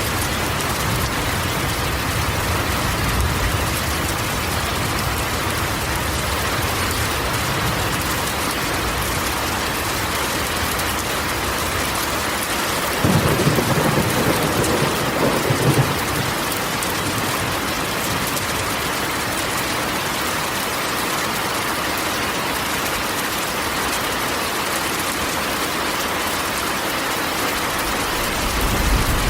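Steady rain falling on a corrugated metal roof, with a low rumble of thunder about halfway through.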